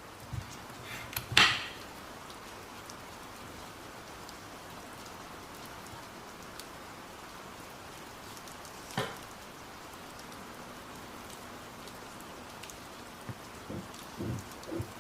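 Steady rain, with a sharp clink of kitchenware about a second and a half in, another about nine seconds in, and a few soft knocks near the end.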